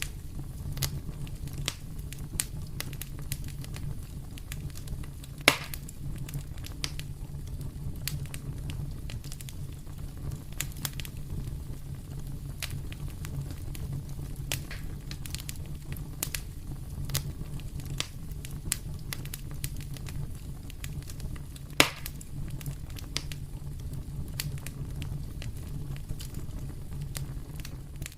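Wood fire in a fireplace crackling, with scattered small snaps and two sharp, louder pops, one about five seconds in and one near the twenty-two-second mark, over a steady low hum.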